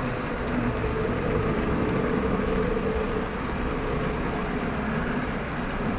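Lionel O gauge model train running on its track: a steady whirring hum from the locomotive's electric motor and rumble of the wheels on the rails.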